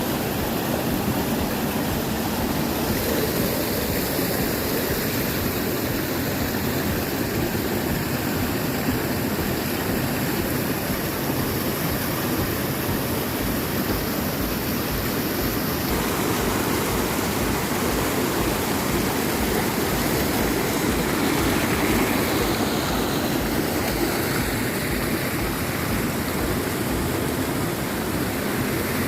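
Jogigundi Falls: a waterfall rushing and splashing in a steady roar of falling water.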